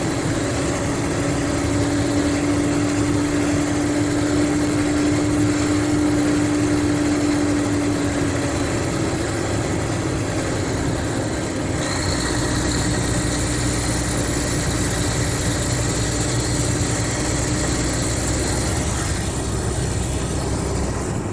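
Mercedes-Benz O500RSD coach's diesel engine running steadily. About twelve seconds in, the deep rumble grows stronger and a faint high whine joins it.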